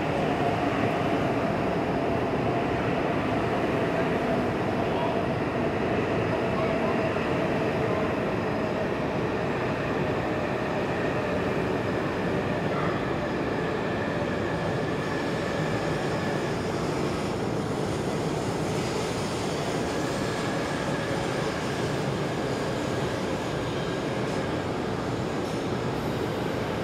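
E5 series Shinkansen train rolling slowly along a platform: a steady rumble of wheels and running gear with faint humming tones, easing off a little toward the end.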